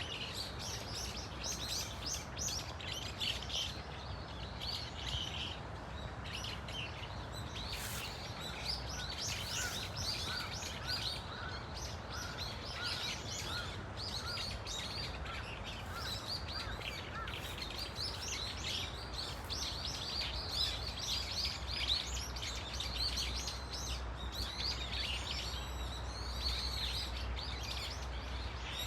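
A flock of brown-eared bulbuls calling, many shrill, overlapping chirps and squeals throughout, over a steady low background rumble. From about a third of the way in, a lower, repeated short note runs underneath for several seconds.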